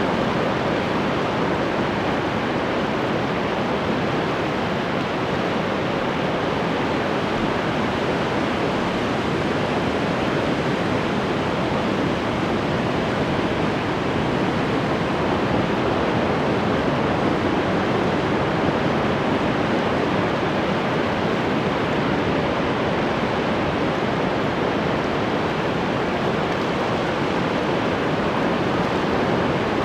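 Ocean surf: breaking waves washing in a steady, even rush with no distinct individual swells.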